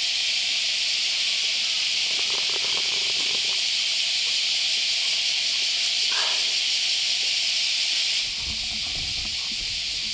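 Chorus of cicadas buzzing in a dense, steady drone that drops somewhat in level about eight seconds in, with a brief wavering call about six seconds in.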